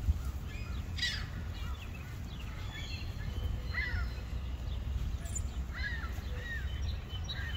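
Several short bird calls scattered through, a few of them quick arching chirps, the clearest in the second half, over a steady low rumble.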